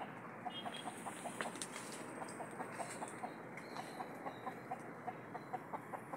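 Birds calling in short, repeated notes, about three or four a second, over a steady background hiss.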